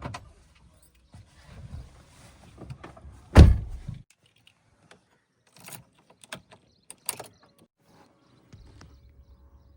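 JCB 3DX backhoe loader working: a low engine rumble with knocks and clunks, the loudest a heavy thud about three and a half seconds in. The rumble drops out for several seconds midway, leaving only a few sharp clicks, then comes back near the end.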